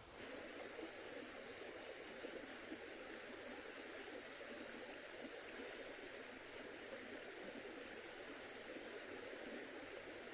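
Steady, even rushing background noise, like flowing water or ambient hiss, with a thin steady high-pitched whine over it.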